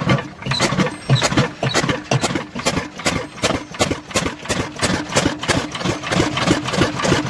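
Cooper CR14 crude-oil engine running, its firing heard as a fast, even run of sharp beats that quicken slightly toward the end.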